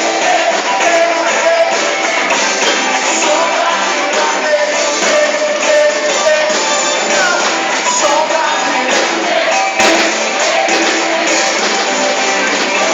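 A live band playing a gospel pop-rock song with a singer. The recording sounds thin, with almost no deep bass.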